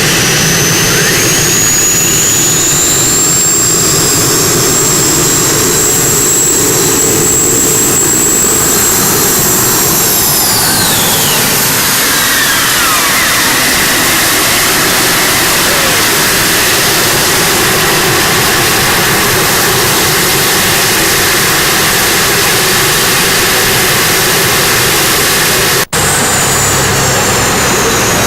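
Modified pulling tractor running at full power with a high whine that climbs to a steady pitch, holds, then slides down in pitch about eleven seconds in. A loud, continuous engine noise runs underneath, broken by a brief cut near the end.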